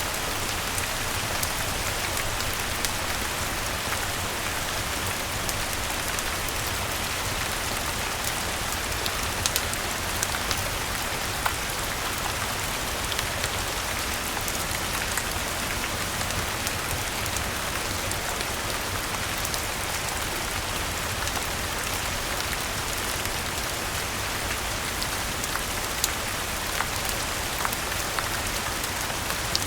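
Steady rain falling, with scattered sharp ticks and crackles from a wood fire in a fireplace.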